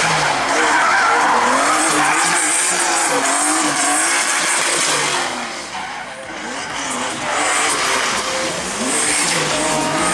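Drift car sliding through a run, tyres squealing and engine revving up and down. The sound eases off about six seconds in, then builds again.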